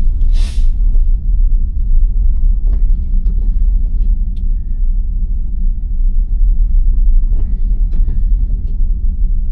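Steady low rumble of tyre and road noise inside the cabin of an electric Tesla Model Y driving on a snowy, unplowed road, with a brief hiss about half a second in and a few faint knocks.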